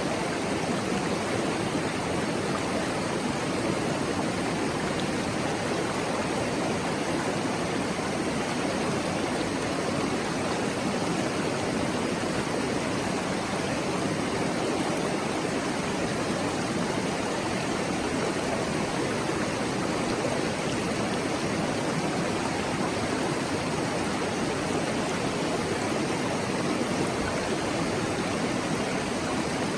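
Mountain stream babbling over rocks: a steady, even rush of flowing water.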